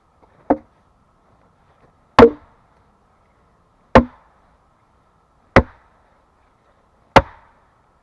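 An axe chopping into wood: five sharp strokes about a second and a half apart, the first one lighter than the rest.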